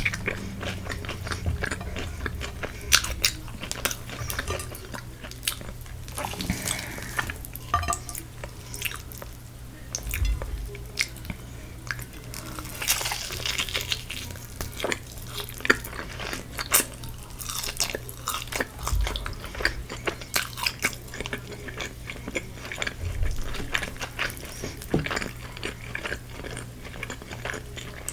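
A person biting and chewing crispy Korean fried chicken close to the microphone, with many short, crisp crunches and clicks scattered throughout, over a steady low hum.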